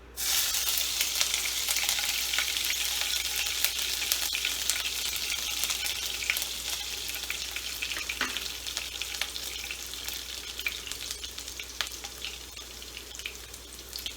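Finely chopped green chilies dropped into hot mustard oil: a loud sizzle bursts in suddenly and then eases slowly, while the pan is stirred with scattered clicks.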